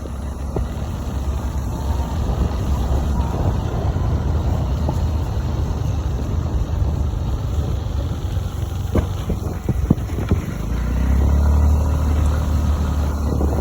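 Car driving, a steady low rumble of engine and road noise, with a few knocks about nine to ten seconds in.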